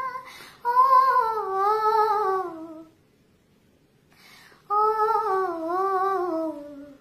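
A high solo voice singing wordlessly, without accompaniment: two long melodic phrases, each wavering and sinking in pitch at its end, with a short pause between them.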